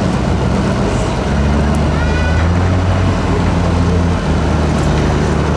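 Turbo diesel engine of an 8x8 Tatra trial truck running hard, a loud steady low drone that shifts in pitch a couple of times.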